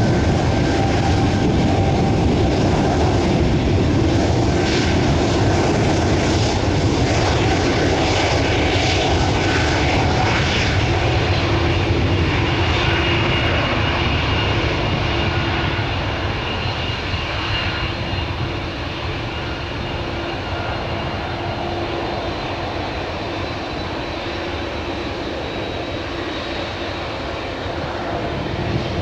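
Twin Pratt & Whitney PW1900G geared turbofan engines of a departing Embraer E195-E2 airliner: loud, steady jet engine noise with several whining tones, easing off slowly from about halfway through.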